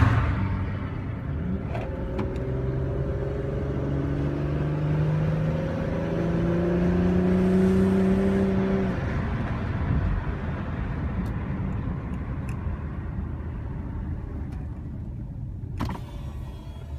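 Car engine running, its pitch climbing slowly for several seconds before it drops away about nine seconds in, leaving a fading low rumble. A loud burst of sound comes right at the start.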